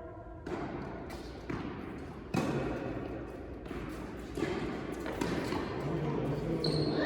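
Tennis ball struck by rackets and bouncing on an indoor court during a rally: four sharp impacts roughly a second apart, the loudest about two and a half seconds in, with the hall's reverberant background noise.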